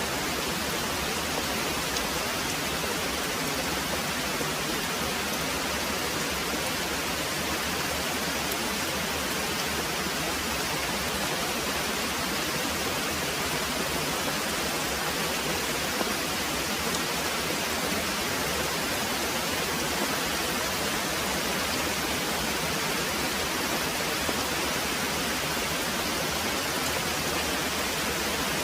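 Very heavy rain pouring steadily, an even hiss with no thunder rolls and no breaks.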